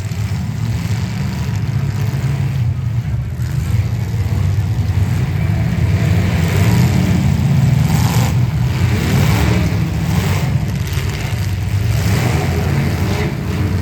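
Demolition derby car engines running and revving, their pitch rising and falling, with a few brief knocks midway.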